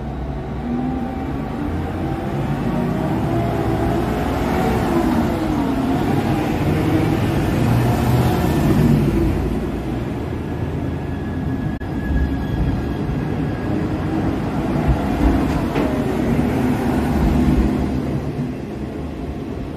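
DSB IC4 diesel multiple unit running close by along a station platform. Its engines give a wavering note over a steady rumble of wheels on rail, growing louder as the train comes alongside and easing near the end. One sharp click sounds partway through.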